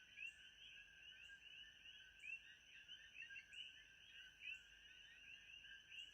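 Faint, dense chorus of many small chirping animal calls overlapping without pause, over a steady high-pitched tone.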